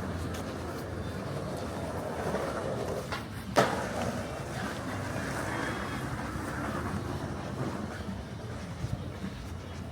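Outdoor city street ambience: a steady hum of traffic going by, with one sharp knock about three and a half seconds in.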